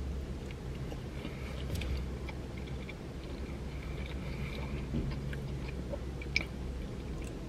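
A man chewing a bite of soft sliced Swiss cheese, with faint wet mouth sounds and small clicks over a low steady hum. There is one sharper click near the end.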